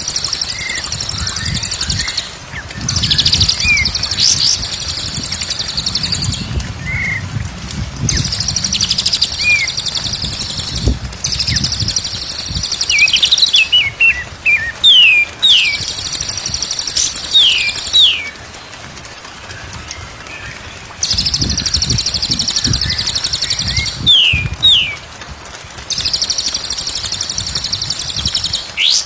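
Songbirds singing: blocks of dense, high trilling a few seconds long alternate with short, sharp whistles that slide downward, with a low rumble underneath.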